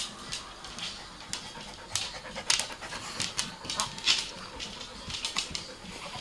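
A dog panting in quick, irregular, hissy breaths.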